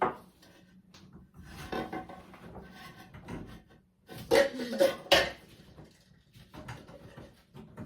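Metal tub drain fitting and its screws clinking and scraping against the tub as they are handled and lined up, with a few louder clanks about four to five seconds in.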